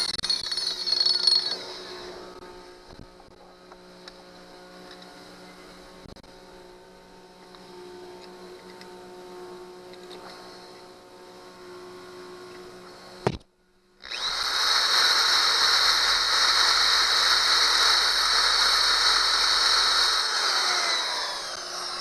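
Electric drill boring into a rusted, seized screw stud on an outboard engine, running at a steady high speed, then winding down. It spins down early on, starts again abruptly a little past halfway, runs steadily for about seven seconds and spins down near the end.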